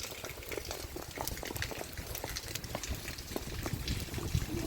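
Water making many small irregular pops and drips over a low rumble, like something bubbling or dripping.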